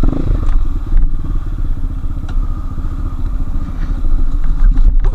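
Enduro motorcycle engine running at low revs on a trail, its firing heard as a fast, steady putter, with a few sharp clicks and knocks from the bike.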